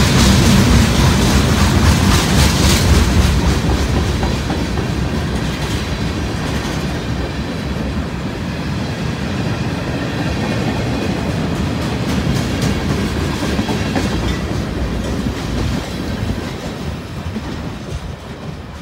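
BNSF manifest freight train's cars rolling past close by, wheels clacking over the rail joints. The sound fades steadily as the end of the train passes and moves away.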